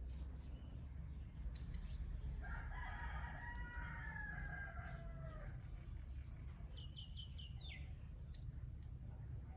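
A rooster crowing once: a single call of about three seconds that sags in pitch at the end. A quick run of short, high small-bird chirps follows, over a steady low background rumble.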